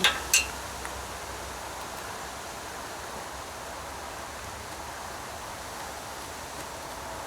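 A single short click near the start, then a steady, even background hiss.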